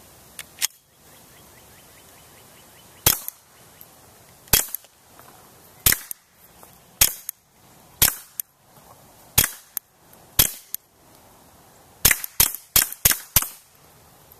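Suppressed .22 LR pistol shots from a Smith & Wesson M&P 22 fitted with an SWR Spectre II suppressor: sharp, quiet cracks fired about one a second, then five in quick succession near the end.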